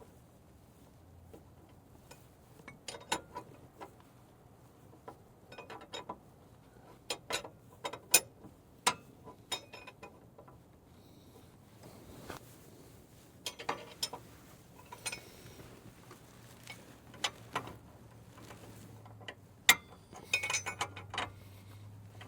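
Hand tools and small metal parts clicking and clinking irregularly, with occasional sharper knocks, during brake reassembly on a truck.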